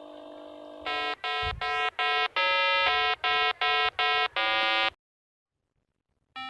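8-bit style electronic jingle: a held tone, then a quick run of about a dozen short beeping notes that cuts off suddenly into silence about five seconds in.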